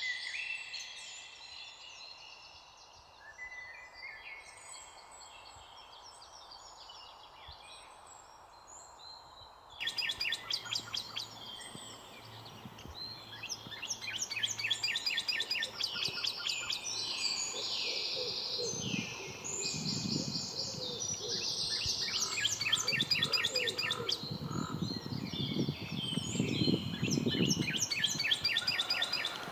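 Songbirds chirping and singing, several birds at once. About ten seconds in the recording cuts to a louder, busier chorus with rapid repeated chirps, and a lower pulsing sound comes and goes beneath the birdsong in the second half.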